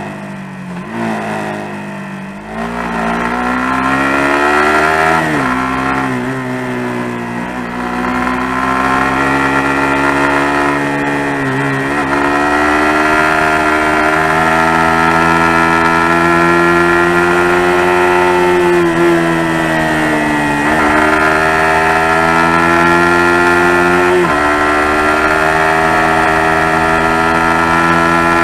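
Suzuki GSX-R150 single-cylinder motorcycle engine ridden through mountain-road bends. Its revs fall over the first two seconds, then climb and dip with the throttle, with sudden pitch jumps at gear changes about five seconds in and again near the end.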